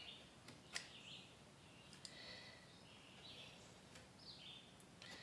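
Faint bird chirps, short and repeated about once a second, with a few sharp clicks; the loudest click comes about three-quarters of a second in and another about two seconds in.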